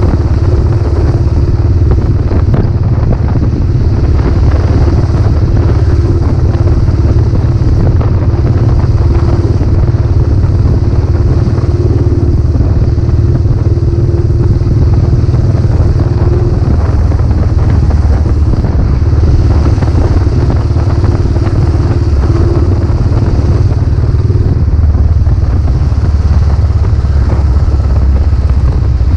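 Royal Enfield Classic 500's single-cylinder four-stroke engine running at a steady pace through its newly fitted silencer while the bike is ridden, with no big revs or gear changes.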